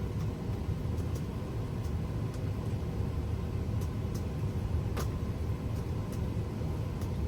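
Steady low rumble with a few faint clicks, one sharper click about five seconds in.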